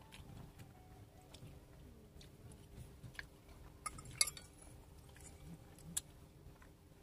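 A person chewing food, with a metal fork clinking against the bowl a few times, sharpest about four seconds in and again about six seconds in.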